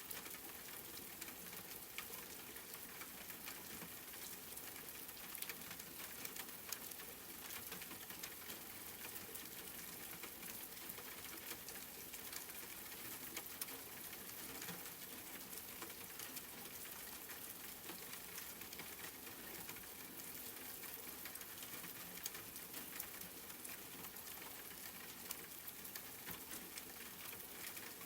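Steady rain falling, a faint even hiss scattered with many fine drop ticks.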